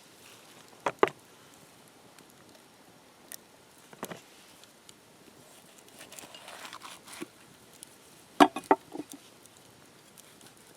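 A few sharp knocks and taps, as of hands working with cooking things: a quick double knock about a second in, a single knock around four seconds, a soft rustle a little later, and a rapid cluster of knocks near the end.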